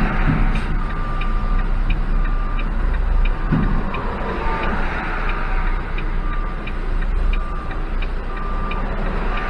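Volvo dump truck's diesel engine idling, heard from the cab, with a steady ticking about twice a second and a short beep repeating every second or so.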